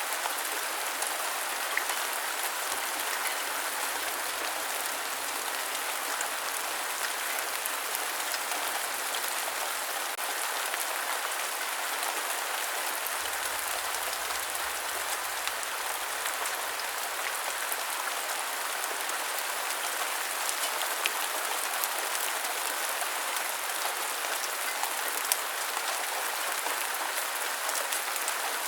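Steady rain: an even, unbroken hiss with a few sharper drop ticks now and then.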